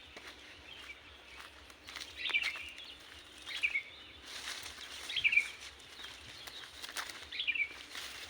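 A bird repeating a short falling call four times, about every one and a half seconds, with a few scattered sharp clicks.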